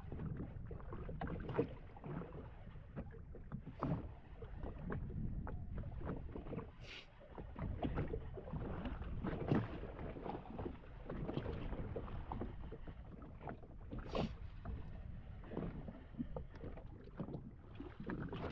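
Water lapping and slapping against the hull of a drifting jet ski, with a couple of sharp knocks about a third and two-thirds of the way in.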